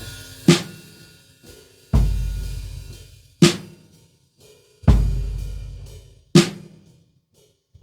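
Slow drum-kit beat without other instruments: a deep bass drum and a sharp snare alternate, one hit about every second and a half, each bass drum hit left to ring out, with small quiet hits in between.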